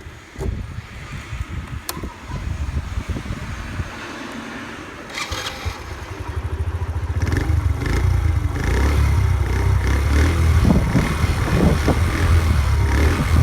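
Honda Magna 50's 49 cc four-stroke single-cylinder engine starting about five seconds in, then idling steadily through its stock muffler, the exhaust getting louder in the second half. Before the start there are irregular low knocks and rustling.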